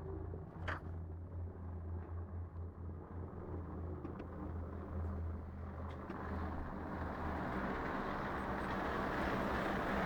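Steady low outdoor rumble, growing louder about two thirds of the way in, with a sharp click about a second in.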